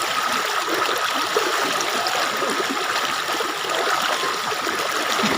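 Water of a natural spring flowing in a steady rush, with a faint steady high tone running underneath.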